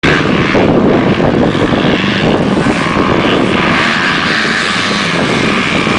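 Motocross dirt bike engines running, a loud, steady buzz.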